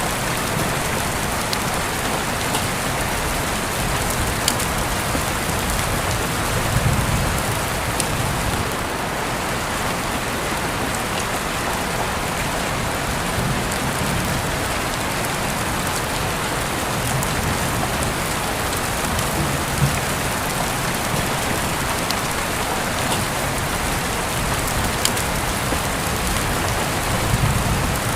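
Steady rain falling, an even patter with scattered louder individual drops.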